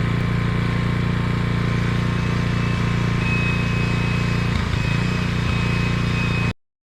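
Lawn mower engine running steadily at constant speed. The sound cuts off abruptly near the end.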